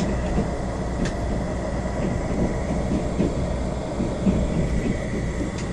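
Passenger train running at speed, heard from inside the carriage: a steady low rumble of wheels on the track, with a couple of faint clicks.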